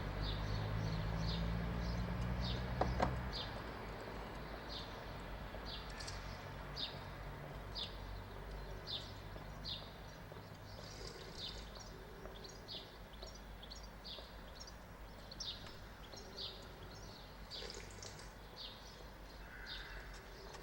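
A bird chirping over and over, a short high call about once a second. A low rumble is heard for the first three seconds, then stops.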